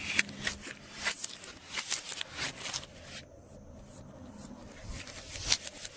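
Glossy slime being squeezed and stretched by hand, making irregular sticky clicks and pops that thin out about halfway through and pick up again near the end.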